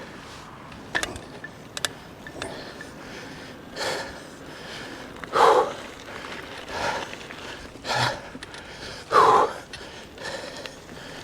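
A rider breathing hard, a puff of breath every second or two, with a few light clicks and knocks from the bike.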